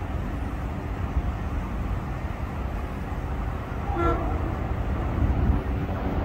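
Metro-North electric commuter train approaching the station, a steady low rumble, with one short horn toot about four seconds in.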